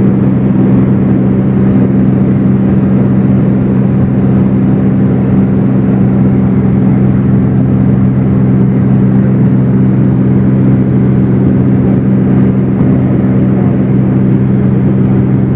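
Cessna 210's six-cylinder piston engine and propeller droning steadily in cruise flight, heard from inside the cabin.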